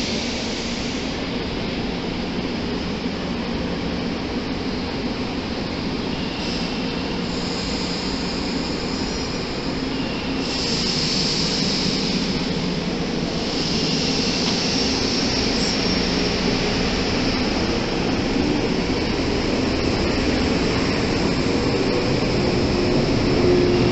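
Yellow JR West 115-series electric train running along the station platform: steady rumble of the train and its wheels on the rails, getting louder as it comes close. A high-pitched squeal comes in for several seconds about ten seconds in.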